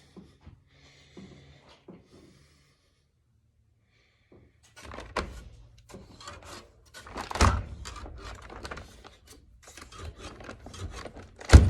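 Rubbing, scraping and knocking of things being handled, starting about five seconds in, with a louder knock near the end.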